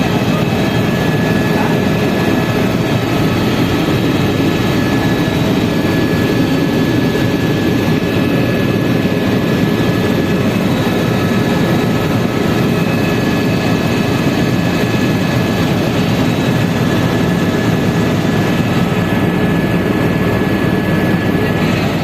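Helicopter engine and rotor running steadily: a loud, even drone with a few faint steady whining tones above it.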